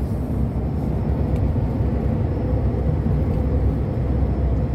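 Steady engine and tyre rumble inside the cab of a long-haul truck cruising on the highway.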